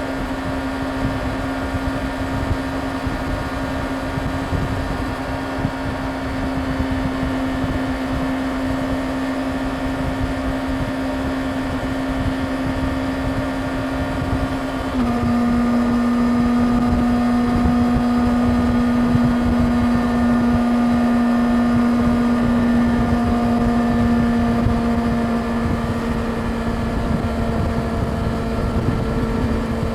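Yamaha YZF-R6 inline-four engine running steadily at highway cruising speed, with wind rush. About halfway through, its pitch drops a step and it gets louder, then it holds steady again.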